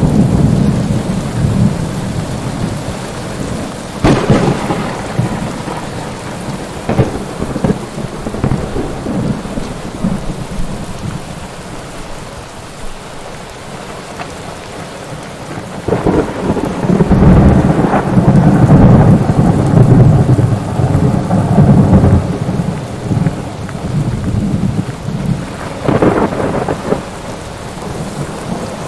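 Thunderstorm: steady heavy rain with thunder, a sharp crack about four seconds in, a long rolling rumble through the middle and another crack near the end.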